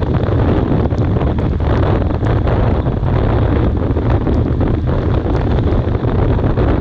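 Loud, steady wind buffeting the microphone, a dense low rumble with a few faint ticks scattered through it.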